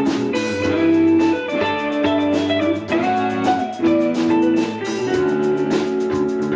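Live band playing a song: guitar chords ringing over a drum kit with a steady beat of cymbal and drum hits.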